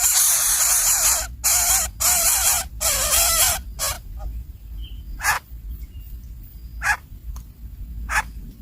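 Nestlings begging with loud, raspy, hissing calls, broken by brief pauses, which stop about four seconds in; three short, sharp calls follow.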